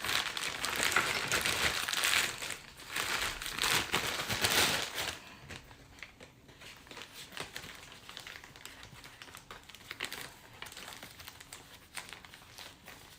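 Plastic sheeting crinkling and rustling as a clay piece is wrapped up to keep it moist, loud for about the first five seconds, then fainter.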